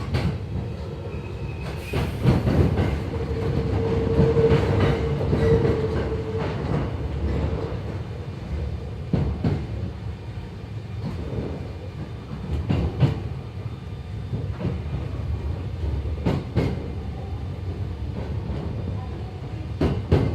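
Hankyu 7300 series electric commuter car running on the line, heard from inside: a steady low rumble from the wheels and running gear, with wheels clacking over rail joints, often in pairs. A humming tone rises out of it for a few seconds early in the stretch.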